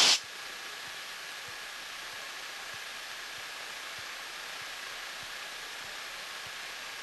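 Steady hiss of Cessna 172 cockpit noise just after touchdown, with a faint steady high tone running through it.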